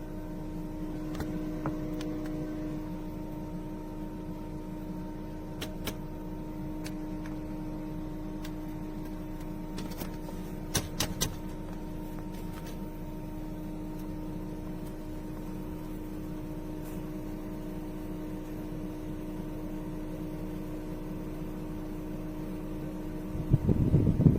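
Mars Hydro M6 6-inch clip-on grow-tent fan running steadily, with a motor hum and the rush of air from its blades. There are a few sharp clicks about halfway through and a louder low rumble near the end.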